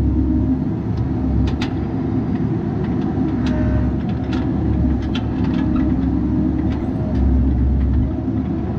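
Bobcat 337G mini excavator's engine running steadily, its low rumble swelling and easing as the machine works, with a few short sharp clanks scattered through it.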